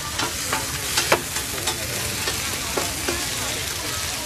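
Shrimp pad thai sizzling steadily in a wide, shallow iron pan, with metal spatulas scraping and clinking against the pan now and then as the noodles are stirred.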